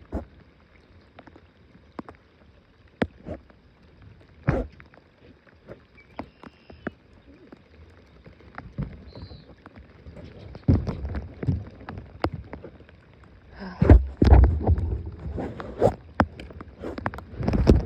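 Scattered knocks and clunks from movement and gear in a small boat on the water, growing heavier and more frequent in the second half.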